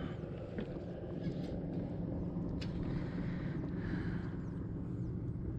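Steady low hum, with a few faint light clicks scattered through it.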